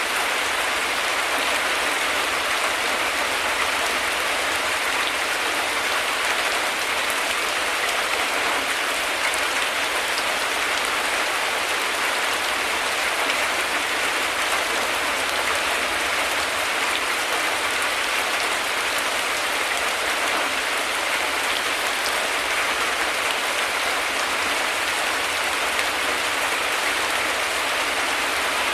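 Heavy rain falling steadily: a dense, even hiss and patter of drops that holds at one level throughout.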